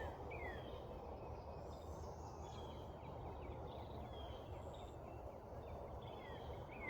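Songbirds at dawn: one bird repeats quick downslurred chirps about twice a second at the start and again near the end, with softer, higher chirps between, over a steady low outdoor background noise.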